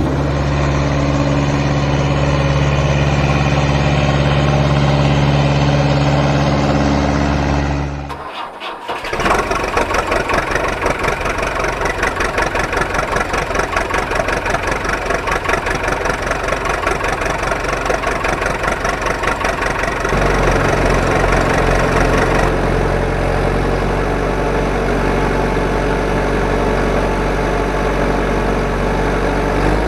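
An engine running loudly. It holds a steady drone at first, cuts out briefly about eight seconds in, then picks up again with a fast, even chugging pulse that shifts in pitch twice later on.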